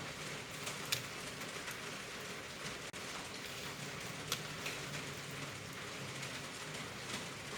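Heavy rain falling steadily, a dense even hiss with a few scattered sharp drop ticks.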